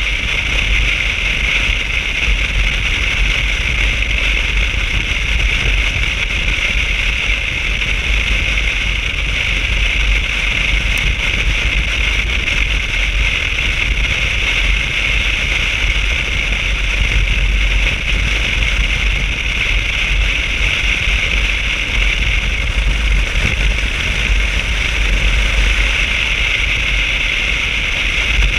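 Motorcycle being ridden at a steady speed: a continuous drone of engine, road and wind noise with a heavy low rumble.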